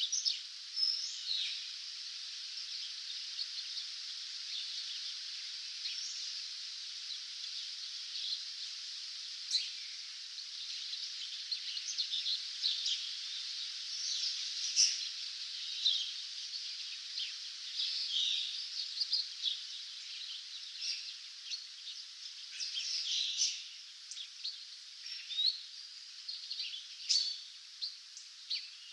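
Dawn chorus of many small songbirds: overlapping short chirps, whistles and trills come one after another over a steady high hiss.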